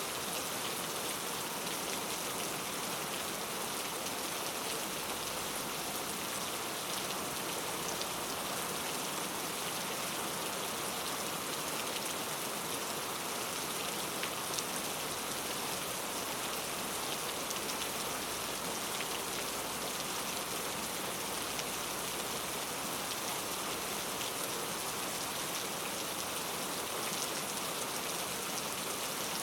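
Steady rainfall in a rainforest, an even hiss of rain with many small drops pattering on leaves and surfaces.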